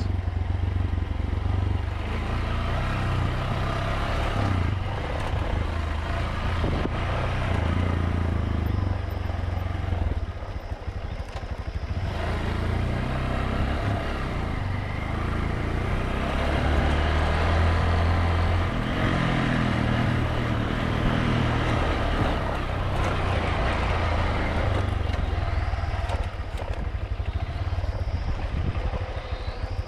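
Motorbike engine running under way, its note shifting as the rider changes speed, with steady wind and road noise over the microphone.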